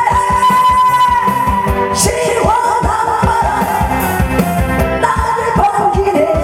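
A singer performing a song over music with a steady beat, holding one long note through the first second before the melody moves on.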